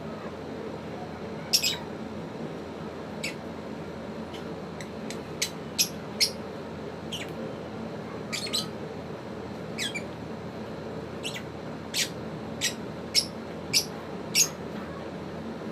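Pet African lovebirds giving short, sharp, high-pitched chirps and squawks, about fifteen at irregular intervals, with a cluster near the end, over a steady low background hum.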